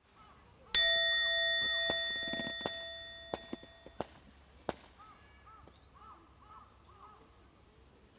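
A metal object struck once, ringing clearly and fading, then cut short about three seconds later. A few light knocks follow.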